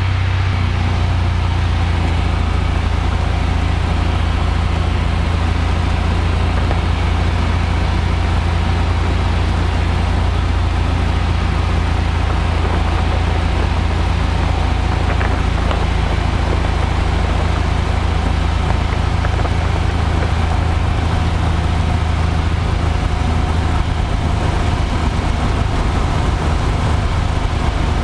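Cessna 172F's six-cylinder Continental O-300 engine and propeller droning steadily, heard from inside the cabin at reduced power on final approach to land.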